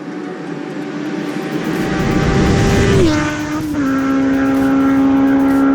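Kawasaki Z750R inline-four running hard through an Akrapovic sport exhaust with dB killer: the engine note swells steadily louder, then its pitch drops in two steps about three and four seconds in and holds at a steady high howl.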